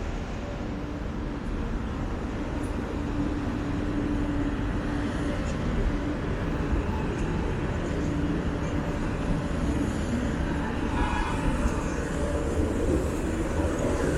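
Steady city traffic rumble, with a low hum from a vehicle engine running through it.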